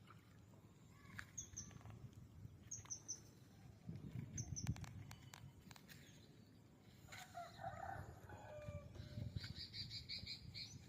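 Faint outdoor bird calls: short, high chirps every second or so, a lower wavering call about two-thirds of the way through, and a quick run of chirps near the end, over a low rumble.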